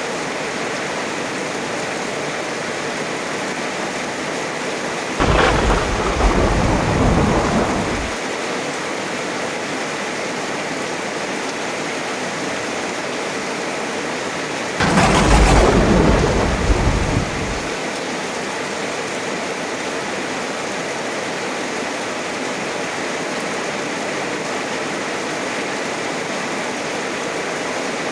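Steady heavy rainfall with two sudden cracks of close thunder, each rumbling for about three seconds, about five and fifteen seconds in.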